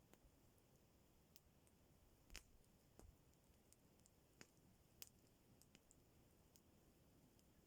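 Faint crackling of a wood campfire: a handful of scattered sharp pops and clicks over a quiet background.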